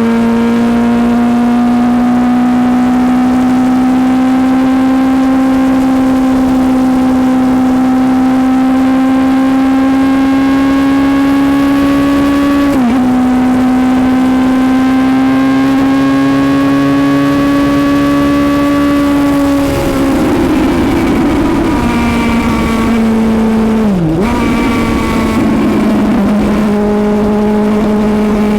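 Suzuki GSX-S750's inline-four engine heard from on board at road speed, pulling steadily with its pitch slowly rising. It drops sharply about halfway through, as at a gear change, then turns rougher and lower near the end with a brief dip before settling.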